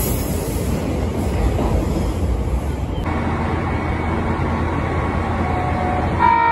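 KiHa 261 series diesel train running past along a station platform, with steady wheel and engine noise. It cuts off suddenly about three seconds in, giving way to a quieter steady hum as the train stands at the platform, and near the end the train's horn starts a loud, held tone.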